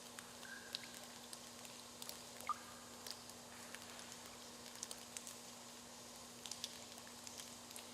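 Water dripping in a limestone cave: scattered faint ticks and a few short pitched plinks, one louder plink about two and a half seconds in, over a steady low hum.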